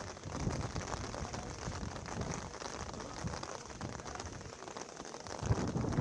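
Steady heavy rain pattering on surfaces, with a few low thuds, the loudest near the end.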